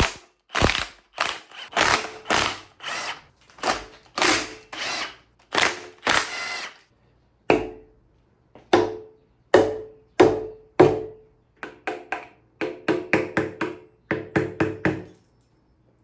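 Wrench loosening the cylinder-head bolts on a small-block Chrysler 360 Magnum: a string of short ratcheting bursts, a few a second. There is a brief pause about seven seconds in, and it stops about a second before the end.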